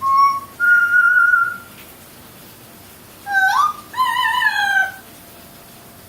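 Parrot whistling: a short high note, then a longer note a little higher, and about three seconds in a rising swoop that runs into a falling note.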